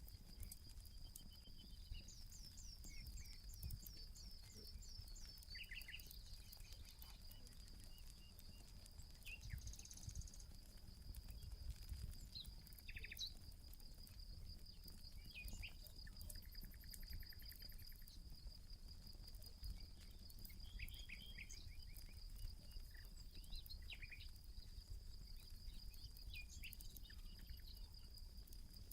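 Field ambience: a steady, high, pulsing insect trill, cricket-like, runs throughout, with scattered short bird chirps and calls over it. Underneath are faint crackles from a campfire and a low rumble.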